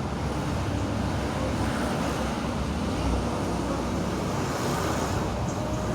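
Honda Win 100's single-cylinder four-stroke engine running steadily through an aftermarket imitation exhaust modified to sound like the original, a low, even pulsing exhaust note.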